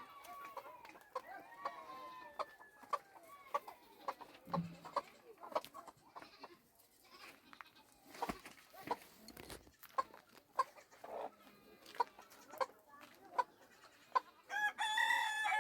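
Farmyard animals, chickens and goats, calling, among scattered short clicks and knocks. A loud, drawn-out animal call starts near the end.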